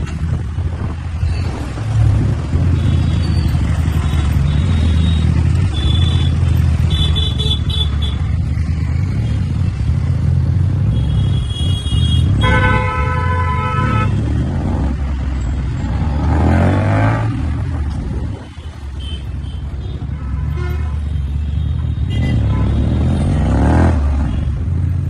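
Motorcycle engine running steadily on the road, with traffic horns tooting several times. One longer horn blast comes about halfway through, and two rising whines follow in the second half.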